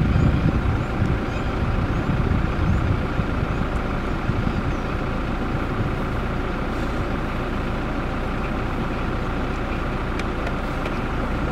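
Vehicle engine idling with a steady hum, a little louder with low rumble in the first second.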